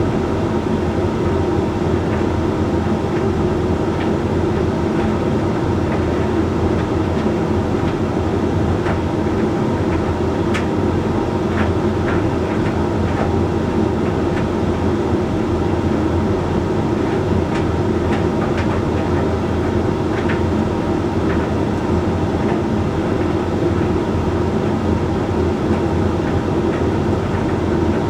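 Hoover Link X Care condenser tumble dryer running mid-cycle: a steady motor and fan hum with the drum turning. A few faint clicks come and go in the middle.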